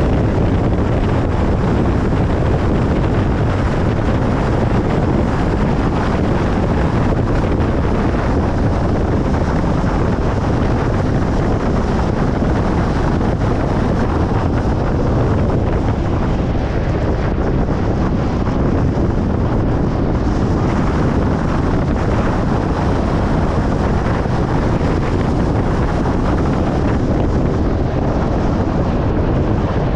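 Steady road noise of a car driving on a highway: an even rumble of tyres and wind, heaviest in the low end, that holds level throughout.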